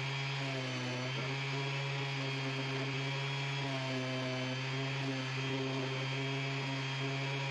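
Orbital sander running steadily on wood, a constant hum with a hiss of sanding over it.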